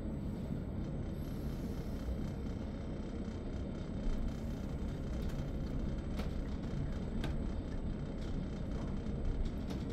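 Steady rumble of a Re 450 DPZ double-deck commuter train in motion, heard inside the passenger cabin, with a few faint clicks scattered through it.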